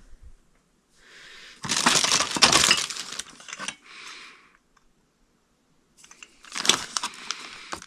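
Glass light bulbs clinking and rattling against each other as they are rummaged through, in two bursts of clatter, the second one full of sharp clicks.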